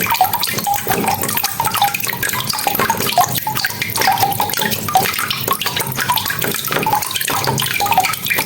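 Steady rain, a dense patter of drops with splashing and dripping water.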